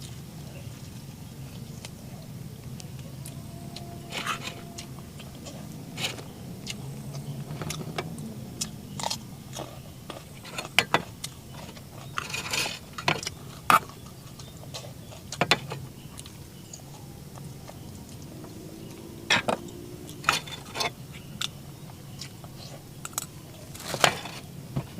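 Irregular clicks, taps and light clatters of small objects being handled, the loudest ones about halfway through and near the end, over a steady low background rumble.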